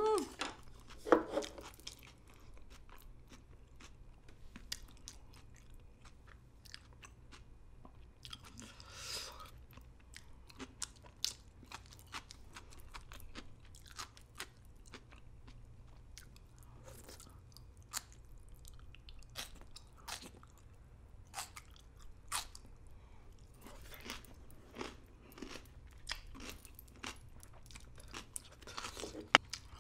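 Close-miked chewing of crunchy pickled vegetables: a steady run of small crunches and wet mouth clicks, louder in the first couple of seconds.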